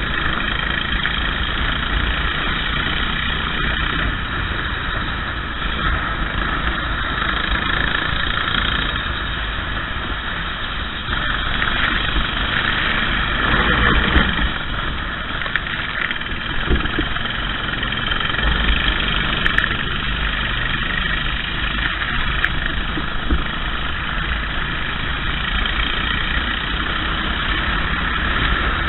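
Racing kart engine running steadily at speed.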